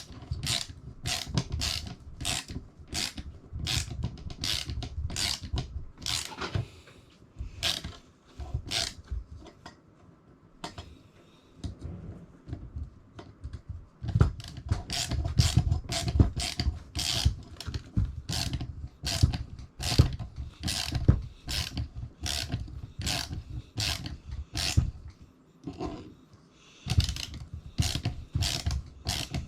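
Ratchet wrench clicking at about two clicks a second as bolts are tightened during assembly, with handling knocks underneath. It stops twice: for a few seconds about a third of the way in, and briefly near the end.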